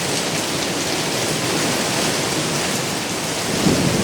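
Strong wind blowing as a steady, dense rush of noise, with a brief louder surge near the end.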